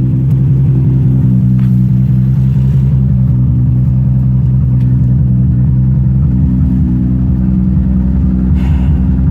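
Toyota Supra race car engine idling steadily.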